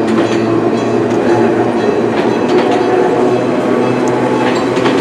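Enoden (Enoshima Electric Railway) train running on its track: a steady hum with wheels clicking over the rail joints.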